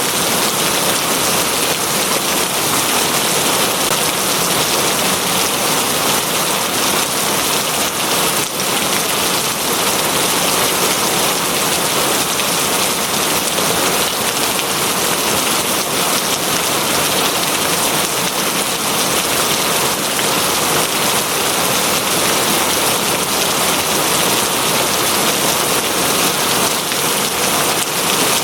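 Steady heavy rain falling and pattering on a surface, an even unbroken hiss.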